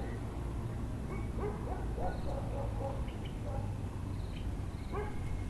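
Dogs yelping and barking in short bouts, a cluster of yips a second and a half in and again near the end, over bird calls and a steady low background hum.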